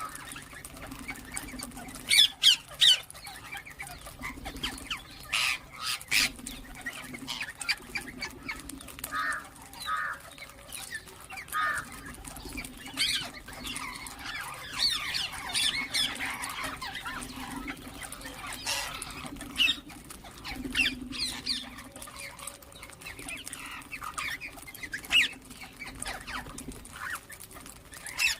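Ring-necked parakeets calling: many short, sharp squawks and chirps at irregular intervals, over a steady low hum.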